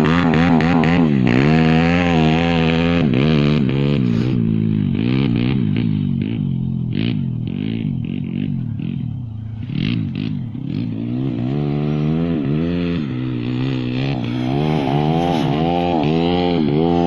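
140cc pit bike's single-cylinder engine running, its revs rising and falling over and over. Around the middle it drops to a lower note with a few clattery clicks, then the revs pick up and waver again.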